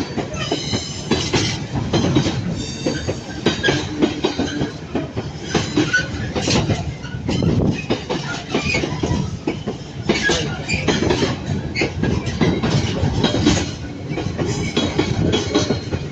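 A long freight train passing at speed: its wagons' wheels clatter and knock over the rail joints, with high wheel squeal in the first few seconds.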